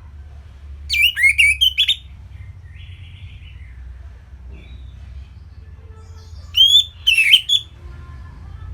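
Orange-headed thrush singing two short song phrases, each about a second long and made of quick sweeping notes, the second coming about five seconds after the first.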